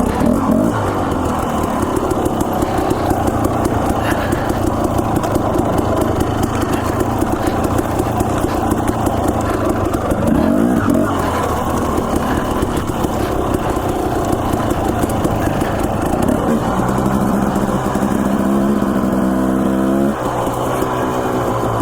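Dirt bike engine running under load on a trail ride, its pitch rising and falling with the throttle. Late on it holds a steady note for a few seconds, then drops sharply about twenty seconds in.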